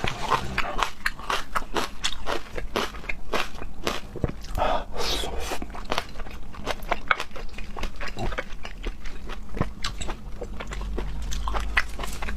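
Person eating seafood: chewing and biting, with many irregular small wet clicks and smacks of the mouth.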